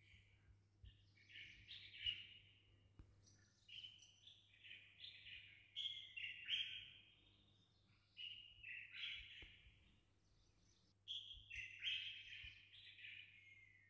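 Songbird chirping and twittering in quick phrases about a second long, with short pauses between them.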